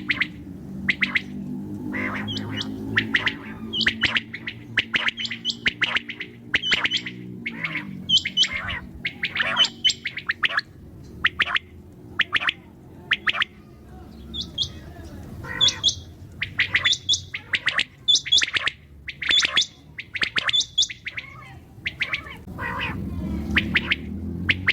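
Common quail calling: a rapid series of short, sharp chirps, several a second, over a low droning hum.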